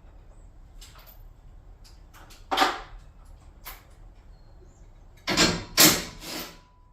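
Knocks and scraping clatters of garage door hardware being worked on during removal. There are a few separate clunks early on and a louder run of three or four about five to six and a half seconds in.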